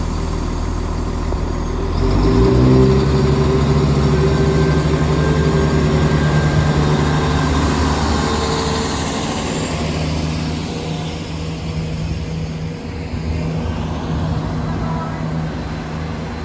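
Diesel train engine throttling up about two seconds in, its note rising and then holding steady, then slowly fading.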